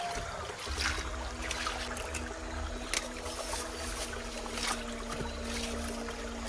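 Water splashing and trickling in irregular small strokes over a low rumble, with a faint steady hum.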